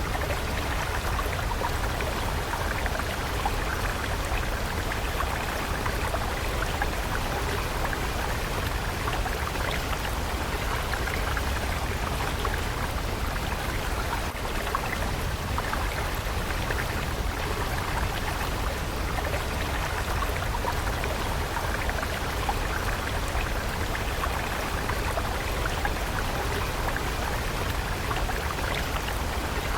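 Water stream flowing steadily, a continuous splashing rush with a low rumble beneath.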